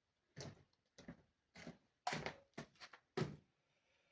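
A series of soft knocks and clunks, about seven in four seconds, each short and dying away quickly.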